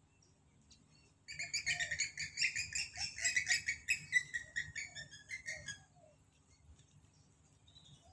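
A bird calling in a rapid, chattering run of high chirping notes that starts abruptly about a second in, goes on for about four and a half seconds, then stops.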